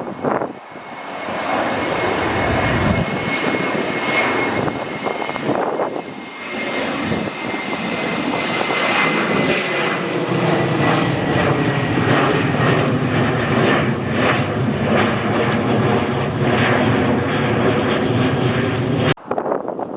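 A passing airliner's engines run loud and close as a broad rush, with a thin high whine slowly falling in pitch. The sound cuts off abruptly about a second before the end.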